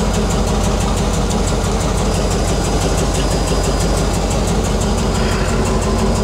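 1994 Chevy K1500 pickup's 350 small-block V8 idling steadily.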